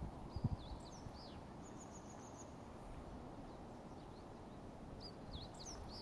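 Wild birds singing: short, high chirps that slide down in pitch in the first second and a half and again near the end, with a quick run of about eight very high notes around two seconds in, over a steady low background hiss.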